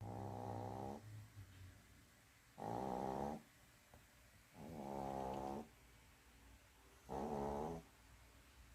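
A sleeping dog snoring: four snores in a slow, even rhythm, one about every two and a half seconds, each lasting just under a second.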